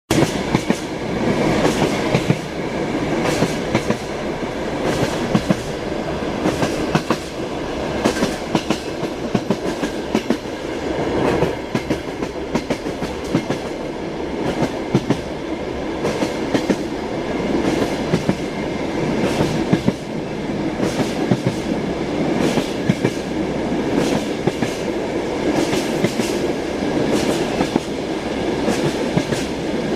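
Moving train heard from inside a railway carriage: a steady rumble with the wheels clattering over the rail joints.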